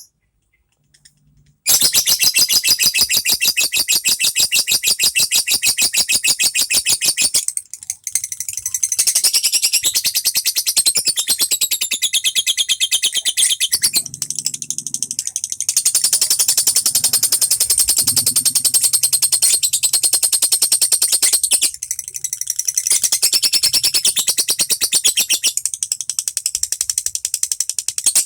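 Lovebird singing a long, fast chattering run of shrill notes. It starts about two seconds in and keeps going with brief dips around eight and twenty-two seconds.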